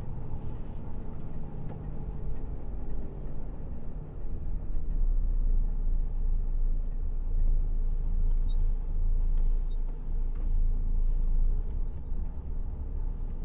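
Lorry's diesel engine running as the truck drives, a steady low rumble that grows louder about four seconds in.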